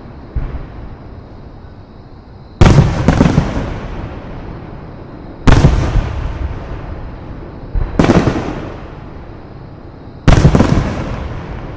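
Aerial fireworks shells bursting: a small pop near the start, then loud booms about every two to three seconds, several doubled. Each boom is followed by a long echoing tail.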